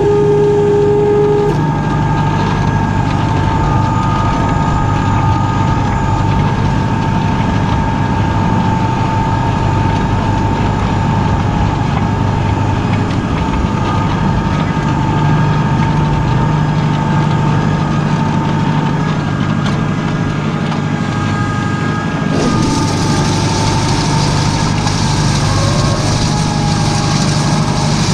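Tractor engine running steadily: a constant hum with a higher whine over it. About 22 seconds in, a high hiss joins it.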